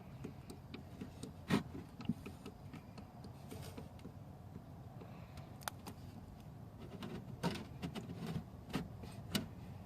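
Irregular clicks and knocks of wooden hive parts being handled and fitted together, over a steady low background.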